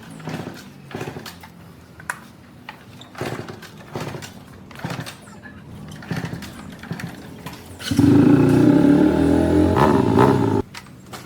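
A few scattered knocks and clicks, then about eight seconds in a motorcycle engine starts and runs loudly and steadily. It drops away briefly near the end.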